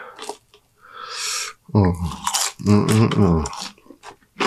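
A man eating french fries dipped in sauce: chewing with wet mouth clicks, and two low, wordless 'mmm' hums about two and three seconds in.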